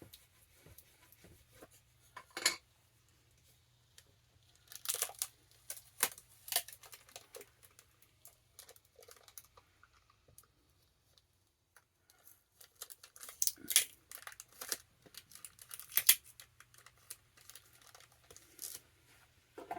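Clear packing tape being pulled and torn and pressed onto a book's paper pages: scattered short ripping and crackling sounds with sharp ticks, bunched in a few spells.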